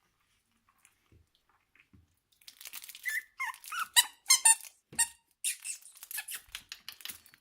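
Three-week-old Australian kelpie puppies squealing in a quick run of short, high-pitched cries that start about two and a half seconds in.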